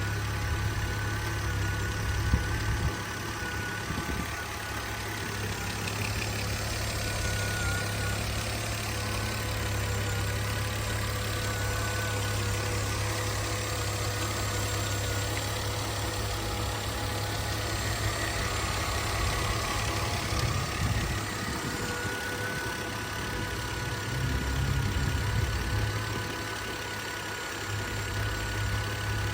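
2012 Volvo XC70 T6's turbocharged 3.0-litre straight-six idling steadily after a cold start. There is a single sharp click about two seconds in.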